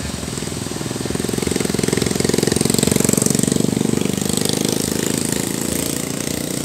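An engine running with a rapid, even pulse, growing louder to a peak about halfway through and then easing off.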